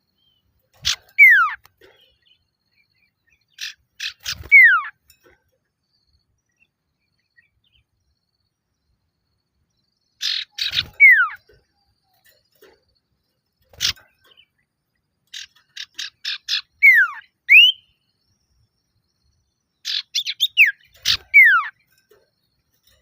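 Male common iora giving its territorial challenge call: about six phrases, each a quick rattle of short notes ending in a clear whistle that slides down in pitch, sometimes with a rising whistle, separated by silent gaps.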